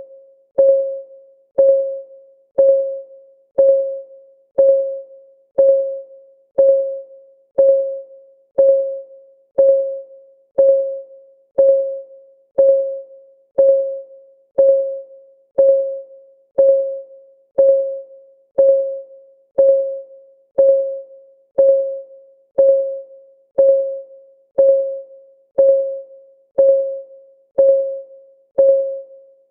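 Countdown timer's clock ticking sound: one short, pitched tick every second, each ringing briefly on the same note and fading fast, with no alternating tick-tock.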